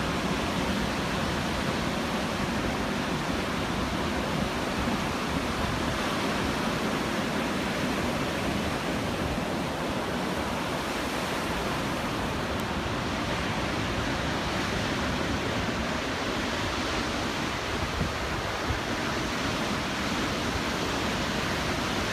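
Ocean surf breaking on the shore: a continuous, even rushing of waves with no single crash standing out.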